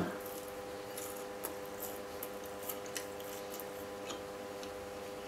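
Close-miked chewing of a mouthful of pastry: scattered soft crackles and wet mouth clicks, over a steady faint hum.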